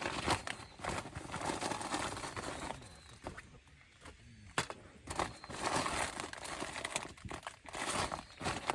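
Crinkling and rustling of bags and packaging being handled, in irregular bursts with scattered clicks and knocks, quieter for a couple of seconds around the middle.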